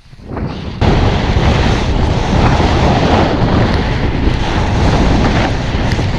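Wind buffeting the microphone, a loud steady rushing that starts suddenly about a second in.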